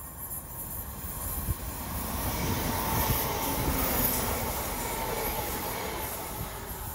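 Multi-car diesel passenger train passing close by along the platform, growing louder to a peak about three to four seconds in, then easing as it draws away.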